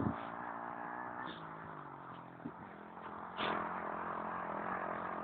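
A 110cc pit bike's small single-cylinder four-stroke engine running at moderate distance. Its note shifts in pitch about a second in, and it gets louder about three and a half seconds in, as the throttle changes.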